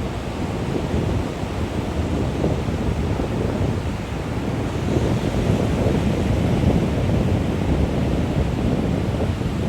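Wind buffeting the microphone: a steady, rushing low rumble with no distinct events.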